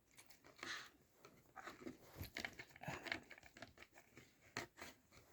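Faint, scattered clicks and scraping rustles as a dog nudges and turns the plastic pieces of a treat puzzle with its nose.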